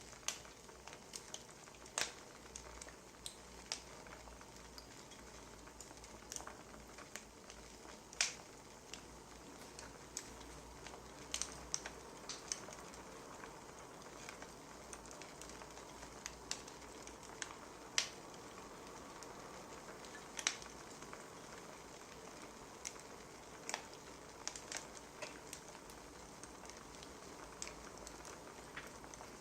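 Wood fire crackling: a soft steady hiss broken by irregular sharp pops and snaps, one every second or two.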